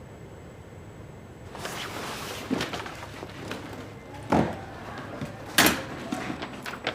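Indoor handling noises: rustling, then three sharp knocks or thumps, the loudest about four and five and a half seconds in, and a few light clicks near the end, like a door or furniture being handled.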